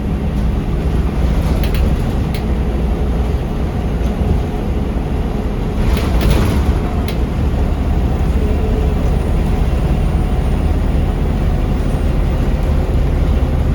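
Scania L94UB bus heard from inside the cabin while riding: steady low engine and road rumble, with a brief hiss about six seconds in.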